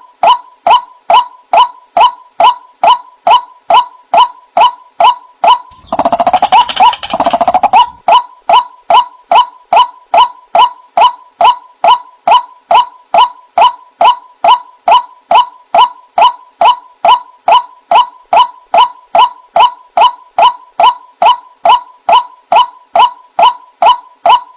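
White-breasted waterhen (ruak-ruak) calling: one short note with a quick upward sweep, repeated evenly about two and a half times a second. About six seconds in, a harsher jumble of overlapping calls breaks in for about two seconds.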